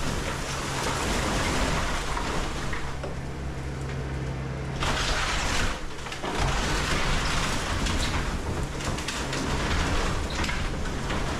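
Kobelco SK210 hydraulic excavator's diesel engine running steadily under load, with dense crackling and crunching as wood and debris of a house break apart, and a brief lull about six seconds in.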